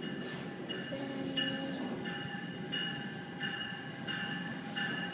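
An approaching train at a station, with a steady low rumble and a high ringing tone that sounds in short pulses about every two-thirds of a second.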